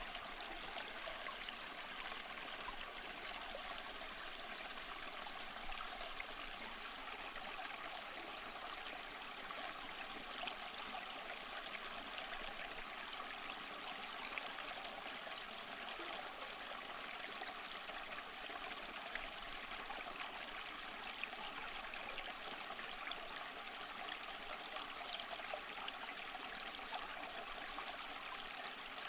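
Waterfall: a steady, unchanging rush of falling water, bright and hissy with little deep rumble.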